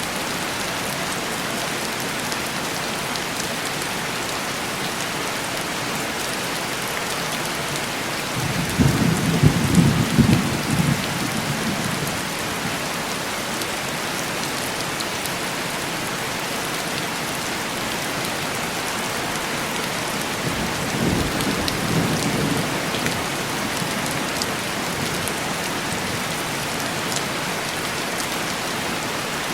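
Steady heavy rain pattering on window glass, with two low rolls of thunder: a louder one about a third of the way in and a fainter one later.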